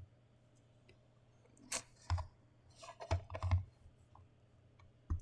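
A few scattered clicks and light knocks of a boxed figure's packaging being handled, the loudest cluster about three seconds in.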